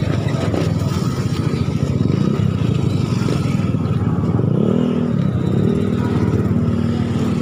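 Motorcycle engines of tricycles running in street traffic, one engine's pitch rising briefly about halfway through.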